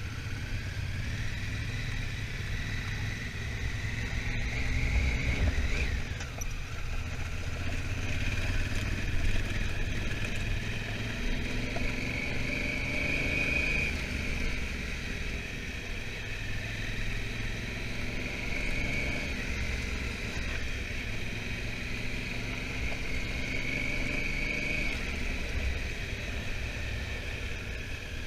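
Honda Africa Twin motorcycle under way, its engine running with a steady low rumble. The engine note rises and eases off in slow swells several times as the bike speeds up and backs off.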